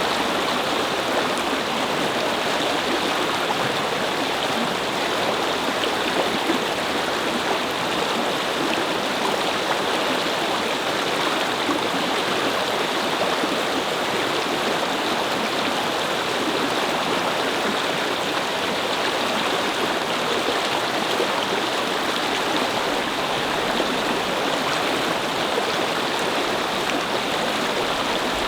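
A brook babbling over stones: a steady rush of flowing water.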